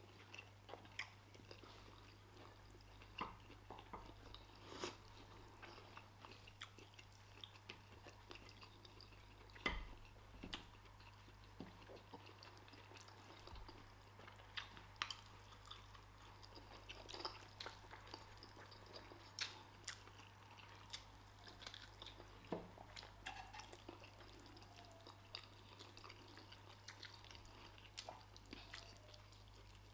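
Faint chewing, biting and mouth sounds of people eating rice and stew with chicken, with many small scattered clicks and smacks over a steady low hum.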